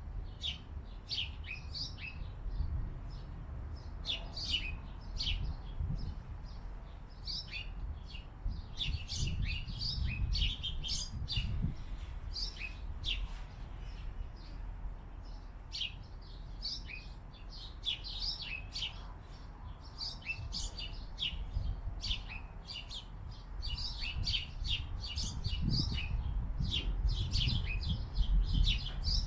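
Several small birds chirping, with many short, quick chirps overlapping throughout. A low rumble runs underneath and grows louder near the end.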